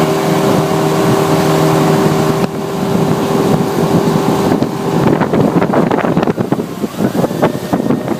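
Motorboat engine running steadily, with wind noise on the microphone. About five seconds in the engine tone drops away and irregular sharp knocks and crackles take over.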